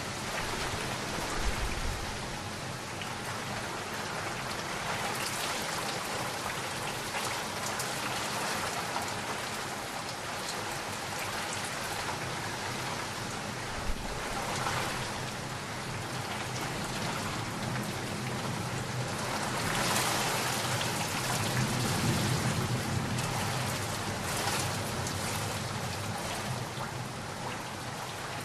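Steady rain falling, dense and even, with a low rumble of distant thunder swelling about two-thirds of the way through.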